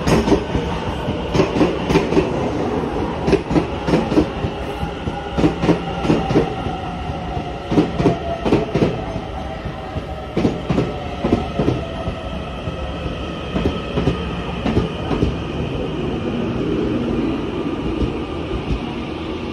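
Taiwan Railway EMU900 electric commuter train rolling slowly alongside the platform as it pulls in to stop. Its wheels knock over the rail joints, with a rumble underneath and a whine that falls in pitch as it slows. The knocking thins out near the end.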